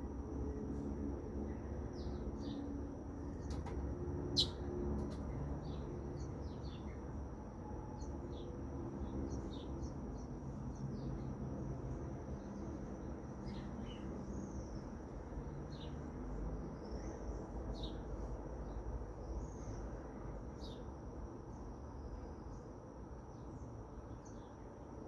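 Birds chirping: short, high chirps scattered throughout, the loudest about four seconds in, over a steady high-pitched hum and a low rumble.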